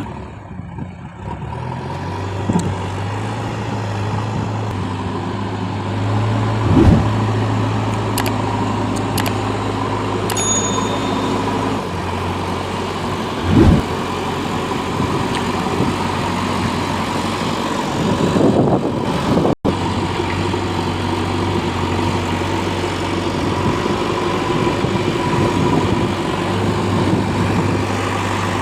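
Heavy diesel engine of a tractor or backhoe running steadily, with two short thumps part way through.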